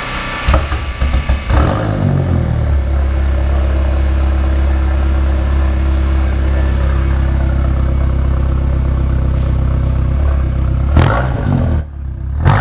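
A car engine is started: it cranks and catches about half a second in, stumbling unevenly for a second or so, then settles into a steady idle. Near the end it is blipped once, dips briefly, and picks back up.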